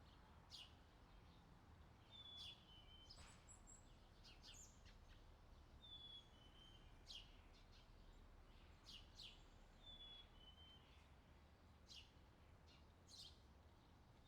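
Very faint birdsong: short high chirps about once a second, with a brief two-note whistle repeating every few seconds, over a faint low rumble.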